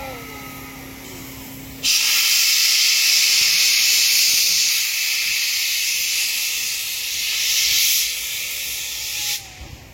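Compressed air venting from a train's pneumatic system with a loud, steady hiss that starts suddenly about two seconds in and cuts off sharply near the end. Before the hiss, a low steady hum is heard, and it stops as the hiss begins.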